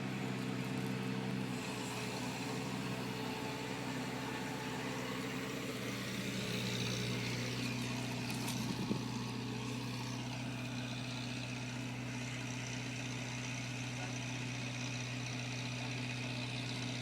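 Engine idling steadily, with one short knock about nine seconds in.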